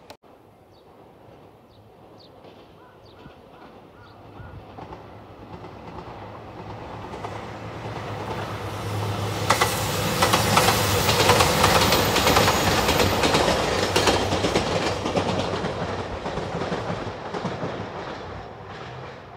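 JR Shikoku 2700-series three-car diesel express approaching and passing. Engine hum and wheels clacking over the rail joints grow louder, are loudest about ten to fourteen seconds in, then fade as the train moves away.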